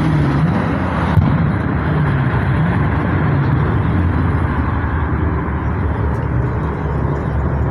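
Car engines running, with wavering low engine notes, and people talking in the background.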